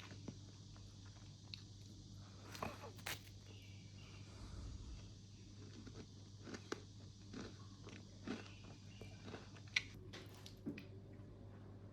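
Someone biting into and chewing crunchy ration food, with scattered small crunches and clicks and a sharper click about ten seconds in, over a low steady hum.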